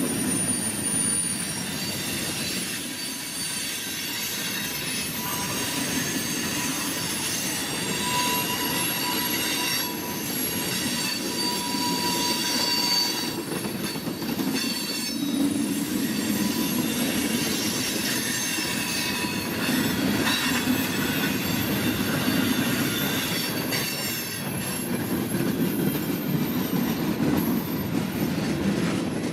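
Freight cars of a CSX manifest train rolling past in a steady rumble, with thin, high-pitched wheel squeals coming and going.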